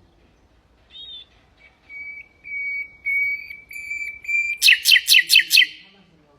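Nightingale singing: a short note, then a run of about five steady whistled notes that swell in loudness, ending in a fast, loud rattle of about eight sharp notes.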